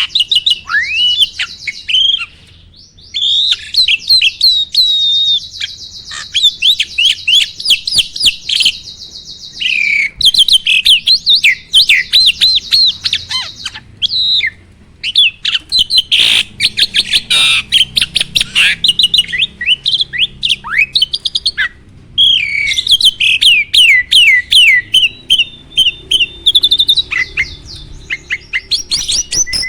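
A jalak (starling) singing a loud, busy song of rapid chattering notes, fast trills and downward-sweeping whistles, in long phrases broken by a few short pauses.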